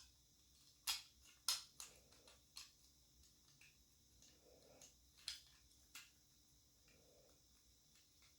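A few light clicks and taps from the opened plastic shell of an NVIDIA Shield controller being handled, scattered over several seconds with near silence between them.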